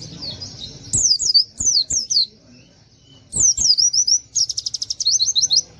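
Pleci (white-eye) singing: loud bursts of quick, sharp down-slurred whistled notes in short series, with a fast rattling trill about four and a half seconds in.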